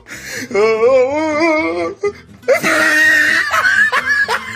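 A high cartoon voice wails with a strongly wavering pitch for about a second and a half, then after a short pause breaks into a loud, harsh shriek.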